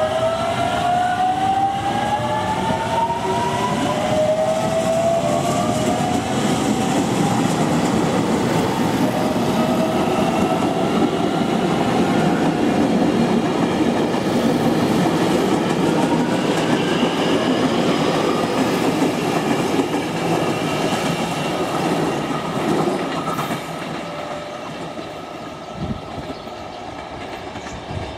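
Train passing with a dense rolling rumble of wheels on rail, and a rising whine in the first several seconds; the sound falls away about 23 seconds in as the train moves off.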